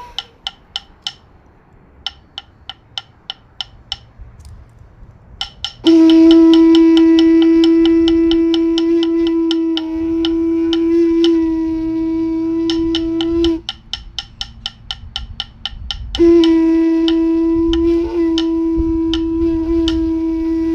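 A seashell trumpet, its tip freshly cut off, blown in two long steady blasts on one pitch. The first starts about six seconds in and lasts about eight seconds; the second starts about sixteen seconds in. It gives a good, full horn tone.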